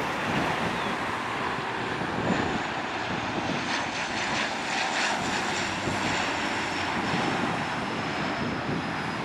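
Bombardier Dash 8 Q400 turboprop passing on landing, its Pratt & Whitney Canada PW150A engines and propellers giving a steady noise. A faint high whine falls slowly in pitch through the middle as the aircraft goes by.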